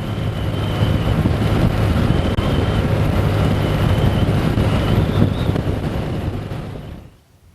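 A motor vehicle going by: engine and road noise swell up, hold for about five seconds with a faint high whine over them, and die away near the end.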